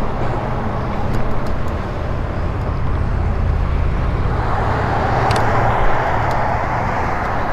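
Wind rushing over the microphone and road noise while riding an e-bike along a road, with a louder rushing hiss from about halfway through.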